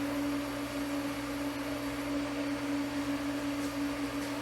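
Steady machine hum holding one even tone, with no knocks or strikes: running workshop equipment.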